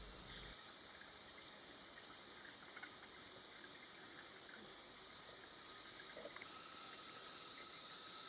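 Steady chorus of forest insects, with a high note pulsing about twice a second through the first half. A faint steady tone comes in about six seconds in.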